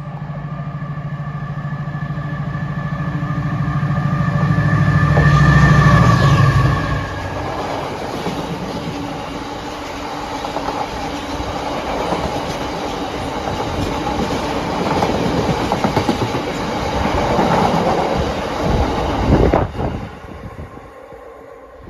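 A diesel freight locomotive passes working hard, its engine note building to a peak, then the train's wagons rattle by with a steady clickety-clack over the rail joints until the last wagon passes near the end.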